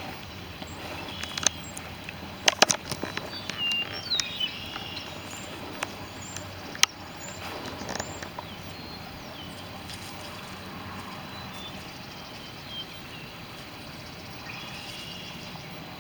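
Outdoor ambience with birds chirping, short high calls scattered through, and a few sharp knocks, a quick cluster about two and a half seconds in and one near seven seconds.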